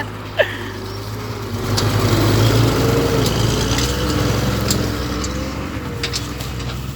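Diesel engine of a Mitsubishi Fuso Fighter truck running under a heavy load of almost 20 tons of sugarcane, getting louder about two seconds in as it pulls away, with a wavering whine over the low engine drone and a few short clicks.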